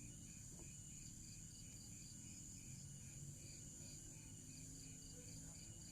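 Near silence, with faint insects chirping in an even rhythm of about three chirps a second over a steady high-pitched whine.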